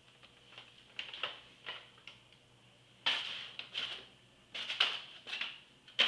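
Paper bag rustling and crinkling in short bursts as a kitten scrambles about inside it, louder from about three seconds in.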